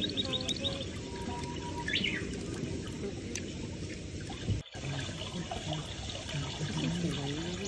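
Birds chirping over a steady outdoor background noise, with a brief sudden dropout a little over halfway through.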